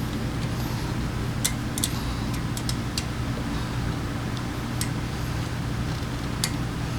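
Italjet Griffon GF125 motorcycle engine idling steadily after its clogged carburetor has been cleaned, with scattered sharp clicks over it.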